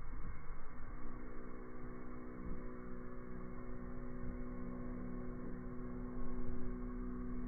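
A steady low hum with a few overtones, beginning about a second in, over a rumbling background noise.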